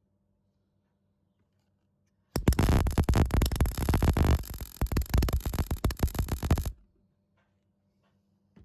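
MIG welder arc crackling and buzzing in one run of about four seconds, starting a couple of seconds in and cutting off suddenly, with the wire feed speed turned up.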